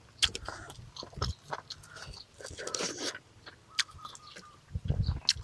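Close-up mukbang eating sounds: a person biting and chewing crisp fried fish, with scattered sharp crunches and wet mouth clicks.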